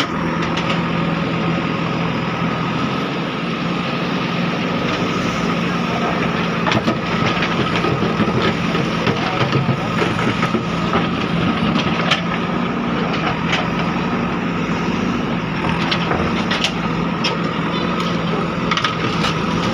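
Diesel engines of JCB 3DX backhoe loaders running steadily, with scattered sharp knocks and cracks as the machines break up an old bridge.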